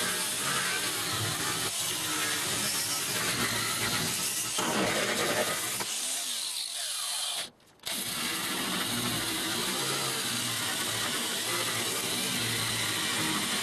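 A power tool running steadily, with a brief dropout about seven and a half seconds in.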